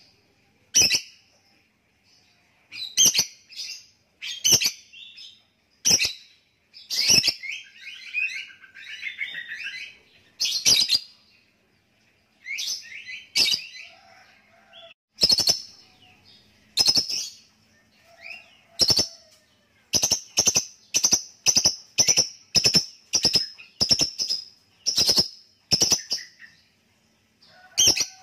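Lovebird giving sharp, shrill calls, singly and in short clusters, with a brief warbling chatter about a third of the way in. Near the end the calls settle into an even run of about two a second, the bird's ngekek song.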